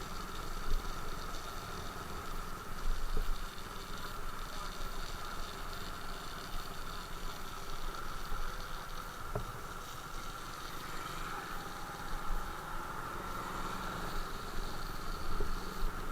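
Motorcycle engine running steadily, with an uneven low rumble underneath.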